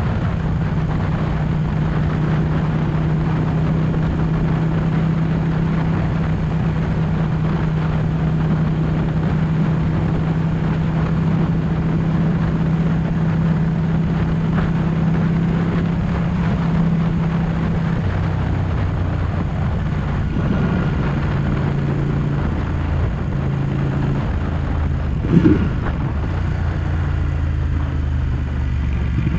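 Ducati 1199 S Panigale's L-twin engine running steadily at cruise. About two thirds of the way through, its pitch drops and shifts in steps, and a short rising rev comes a few seconds before the end.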